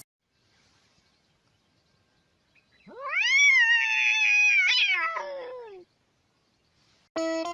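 A cat's single long meow lasting about three seconds; its pitch rises quickly, holds, then sinks at the end. Guitar music starts near the end.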